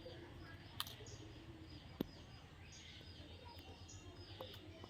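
Faint, scattered bird chirps over a quiet background, with a couple of sharp clicks about a second and two seconds in.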